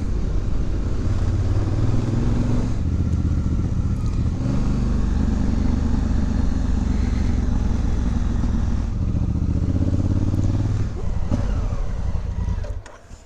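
Honda Africa Twin's parallel-twin engine running under way, its pitch shifting a few times through the gears. The engine sound dies down near the end as the bike slows.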